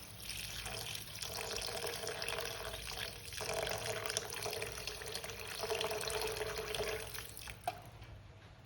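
Water running from a kitchen tap into a sink, with a steady splashing rush that fades out near the end after a short knock.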